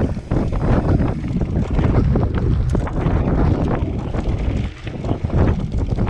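Strong wind buffeting the microphone of a camera on a moving bicycle ridden into a headwind: a loud, uneven rushing rumble.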